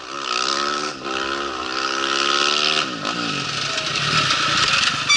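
Rally motorcycle accelerating past at speed. The engine note climbs, dips briefly at a gear change about a second in, climbs again, then drops in pitch as the bike goes by about three seconds in, over a loud rushing hiss.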